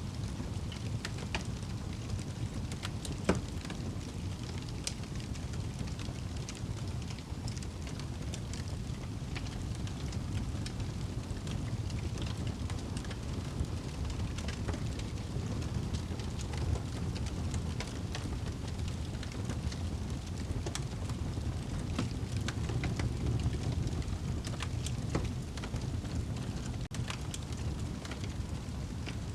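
Fire crackling in a fireplace: a steady low rumble of burning with scattered sharp pops and snaps, one louder pop about three seconds in.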